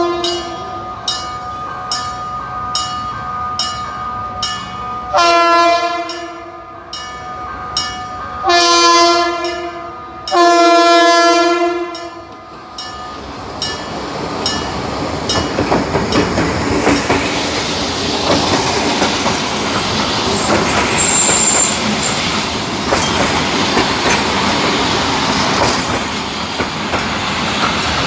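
Train horn sounding three long blasts of the same chord after a few seconds of steady clicking about twice a second, then the rumbling clatter of a train on the rails, growing louder and staying loud.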